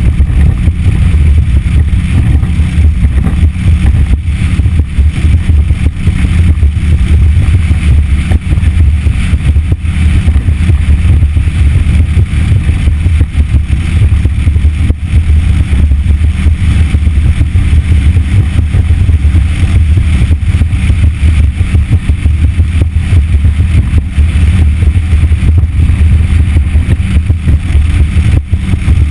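Motorboat under way, driven by a Yamaha F60 four-stroke outboard, running steadily, with heavy wind buffeting on the microphone.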